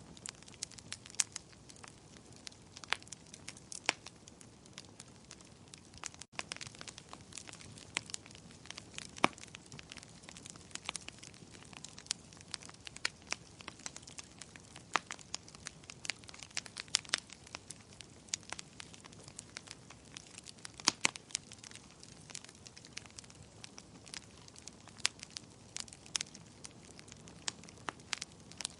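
Fireplace fire crackling: irregular sharp pops and snaps over a soft, steady hiss.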